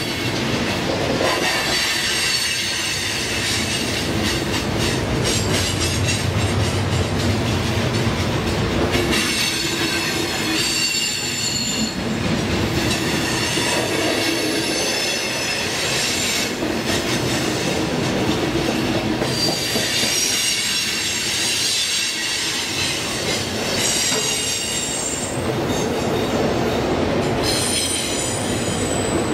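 Cars of a mixed freight train rolling past close by: a steady rumble and clatter of steel wheels on the rails, with high-pitched wheel squeal that comes and goes every few seconds.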